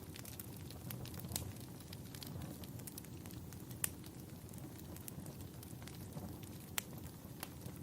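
Wood fire burning in a fireplace: a steady low rumble of flames with scattered sharp crackles and pops, the loudest a little under 4 s in and near 7 s.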